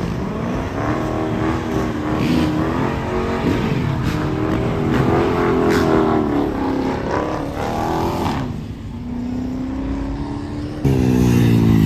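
Car engines revving through loud exhausts, their pitch rising and falling again and again, then settling to a steady drone. About eleven seconds in, a louder engine suddenly cuts in.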